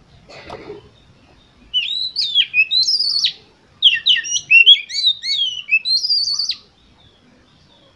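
Oriental magpie-robin (kacer) singing two loud phrases of quick, varied whistled notes, the first about a second and a half long and the second about three seconds, after a brief soft rustle near the start.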